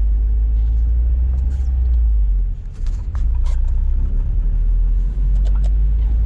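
Loud, steady low rumble with a few faint clicks over it.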